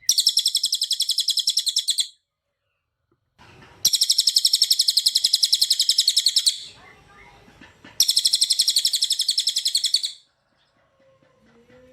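A cililin singing three loud bursts of very rapid, evenly repeated high-pitched notes, each burst lasting two to three seconds and breaking off sharply, with short pauses between them.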